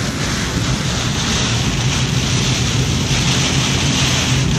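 Loud, steady rush of hurricane rain and wind against a moving car, over the car's constant low road and engine drone.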